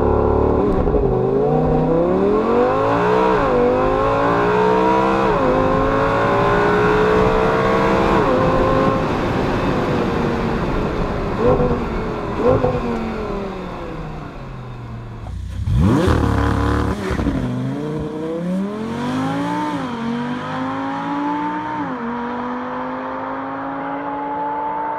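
Audi R8 V10 Spyder's 5.2-litre V10 making a launch-control start: a sudden burst of revs, then full-throttle acceleration climbing in pitch with quick upshifts about every second, heard from inside the cabin, before easing off. About 16 seconds in, a second launch-control start, heard from the roadside, with the same rising revs and upshifts as the car pulls away.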